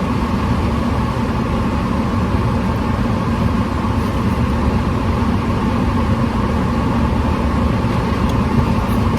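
Steady low rumble inside a car with the engine running, unchanging throughout.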